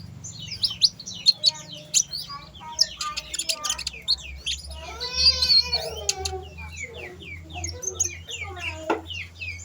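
Kolibri ninja (sunbird) singing continuously in rapid, high-pitched twittering chips and quick sliding notes, one after another.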